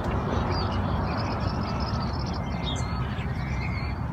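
Faint short calls of farmyard birds over a steady low background rumble.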